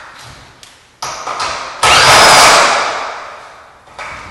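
Loud metal banging and rattling on a steel garage door's top section as the strut and opener bracket are removed: a hit about a second in, then a longer, louder clatter, each ringing out and fading slowly, and a smaller knock near the end.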